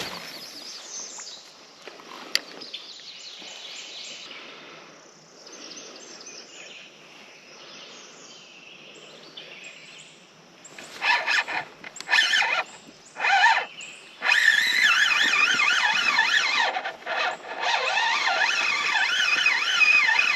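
Quiet swamp ambience with faint bird calls, then from about eleven seconds in loud splashing of a fish hooked on a swim bait thrashing at the water's surface, mixed with high wavering squealing tones.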